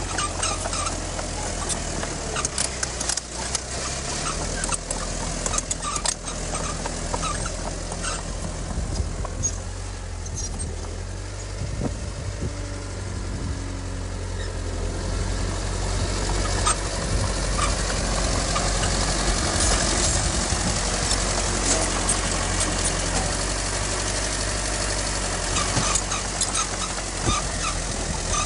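Diesel engine of heavy earthmoving machinery running steadily, with frequent clanks and clicks over it. It grows louder about halfway through.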